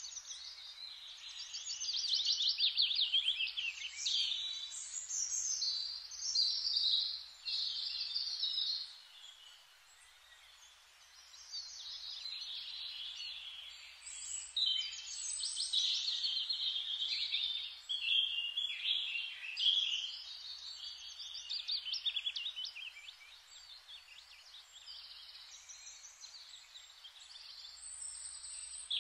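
Small birds chirping and twittering in a steady chorus of quick trills and chirps, louder and softer by turns.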